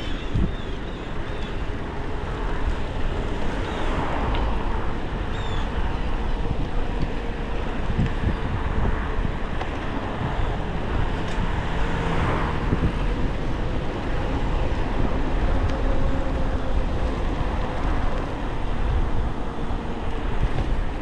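Wind rumbling on the microphone of a moving e-bike, over steady road and traffic noise. A couple of passing vehicles swell and fade, about four and twelve seconds in.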